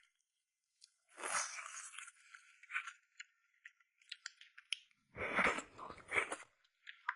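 Close-miked eating: a person chewing food in irregular short bursts and clicks, with the loudest bites about five seconds in.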